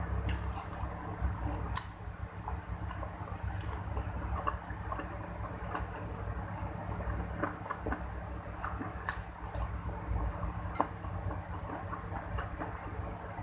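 Close-miked eating sounds: moist chewing with scattered sharp clicks, such as a spoon on a plate, over a low steady hum; the sharpest click comes about two seconds in.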